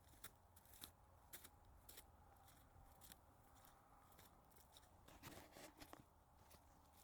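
Faint footsteps crunching in snow, about two steps a second, with a louder scuffing cluster about five seconds in.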